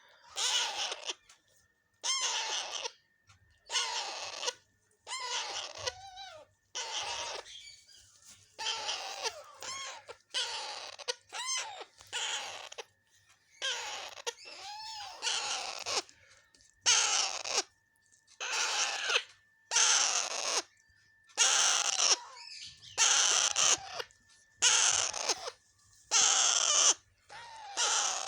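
Alexandrine parakeets calling over and over, one short call about every second.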